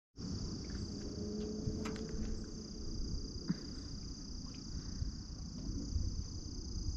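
Steady high-pitched insect chorus buzzing without a break, over a low rumble, with a couple of faint knocks.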